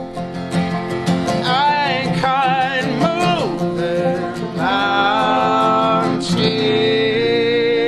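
Live folk-rock band playing: strummed and picked acoustic strings under a wavering sung melody, which settles into a long held note about six seconds in.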